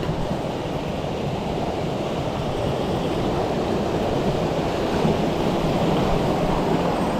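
Mountain stream rushing over rocks: a steady, fairly loud rush of water, growing a little louder about three seconds in.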